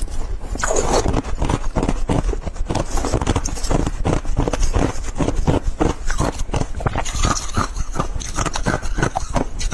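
Ice being chewed close to the microphone: a rapid, continuous run of sharp crunches, several a second.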